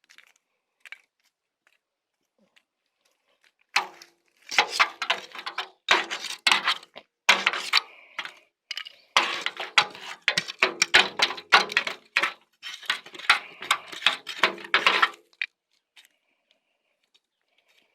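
Dry twigs and branches crackling and snapping in dense runs of sharp cracks from about four seconds in until about fifteen seconds in.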